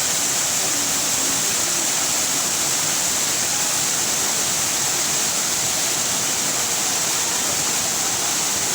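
Shiraito Falls, a wide curtain of many thin streams of spring water pouring off a low rock face into a pool, making a steady, even rush of falling water.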